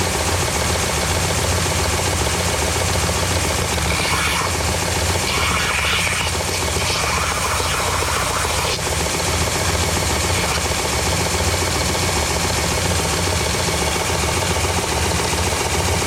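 Electric sander running steadily with a low hum as steel bolt heads are ground against it to take their coating off. The grinding grows louder in patches a few seconds in.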